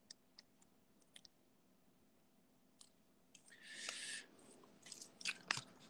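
Near silence with scattered faint clicks, a brief soft hiss about three and a half seconds in, and a few sharper clicks near the end.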